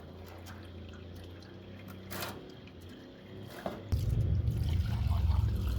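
Leftover gasoline draining out of a lawn mower's fuel tank into a pan, trickling and dripping at first, then turning into a heavier, louder pour about four seconds in.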